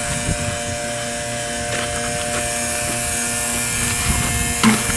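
Small electric water pump running steadily with a buzzing hum, drawing rainwater out of a storage drum. A brief knock near the end.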